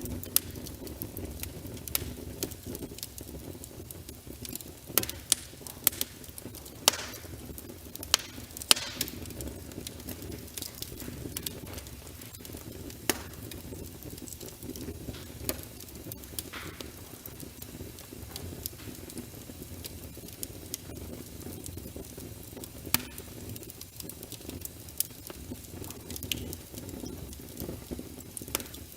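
Wood fire in a fireplace: logs burning with a steady low rumble and irregular sharp crackles and pops, thickest in the first third.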